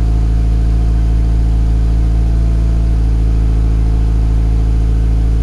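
Mitsubishi Lancer Evolution IX's turbocharged 4G63 four-cylinder, on E85 fuel with 272 cams and 1550cc injectors, idling steadily shortly after a cold start. The idle is even and good, with no ticking, knocking or struggling.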